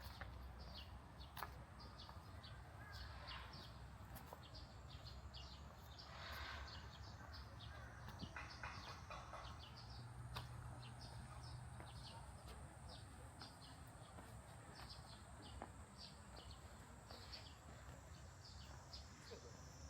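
Small birds chirping in quick, repeated short notes over faint background noise. A steady high-pitched tone joins about halfway through.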